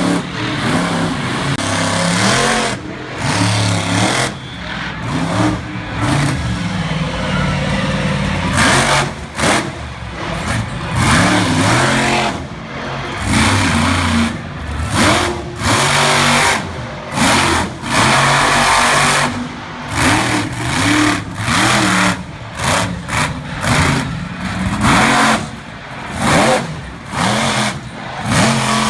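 Monster truck engine revving hard over and over, its pitch climbing and dropping in quick surges every second or two.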